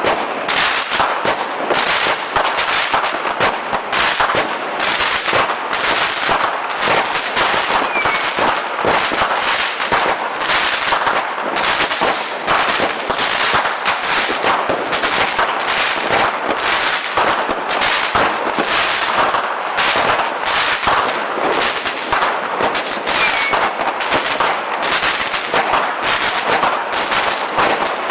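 Firecrackers and fireworks going off in a dense, continuous barrage: rapid overlapping bangs and crackling, several a second, with no let-up.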